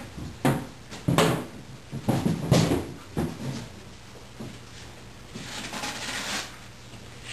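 Several knocks and bumps from handling the crated motorcycle, then a longer rubbing, scraping noise about five seconds in.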